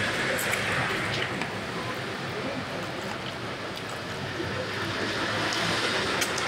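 A man chewing fried chicken, with a few faint crunchy clicks, over a steady rushing background noise.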